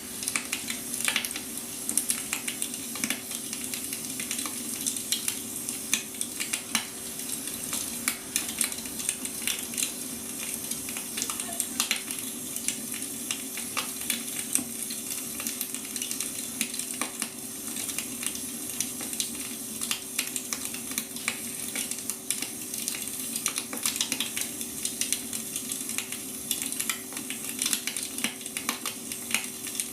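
Wood fire burning, with dense, irregular crackles and pops over a steady hiss. A faint steady hum runs underneath.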